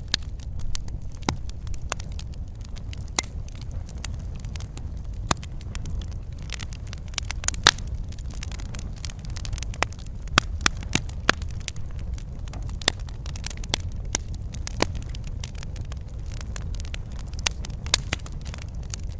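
Fireplace fire burning and crackling: irregular sharp pops and snaps, some louder than others, over a steady low rumble of the flames.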